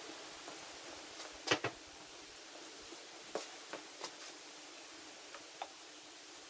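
A few light clicks and taps of tools and parts being handled during a handlebar install, loudest a double click about one and a half seconds in, over a steady hiss.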